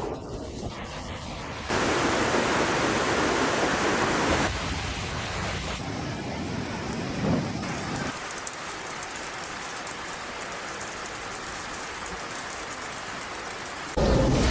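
Heavy rain pouring down, a dense steady hiss that jumps abruptly louder or softer several times, with a brief loud burst near the end.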